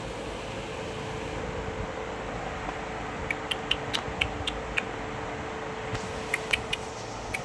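A parrot makes quick, sharp clicks in two short runs, about four a second, over a steady fan-like hum.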